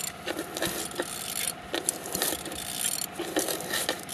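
Hyundai/Kia G4GC 2.0-litre four-cylinder petrol engine running at idle, with a steady drone and a busy ticking and clatter over it; judged to be running good.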